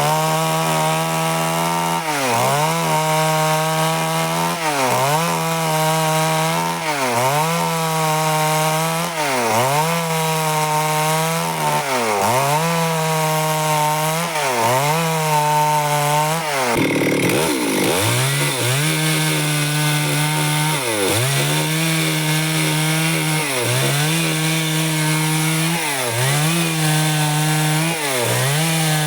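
Stihl two-stroke chainsaw running at high speed while cutting wood, its engine pitch dipping briefly and recovering about every two seconds. There is a longer, deeper dip about seventeen seconds in.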